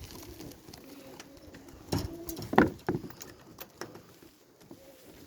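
Pigeons cooing, with a few sharp knocks about two to three seconds in.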